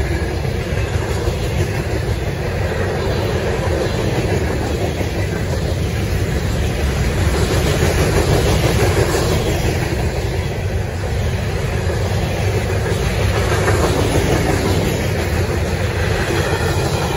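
Steel wheels of CSX coal hopper cars rolling past on the rails, a steady loud run of wheel-on-rail noise.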